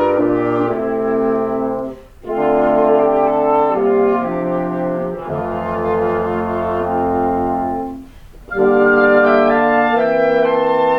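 Woodwind quintet with French horn (flute, oboe, clarinet, horn and bassoon) playing sustained chords in phrases, breaking off briefly about two seconds in and again about eight seconds in.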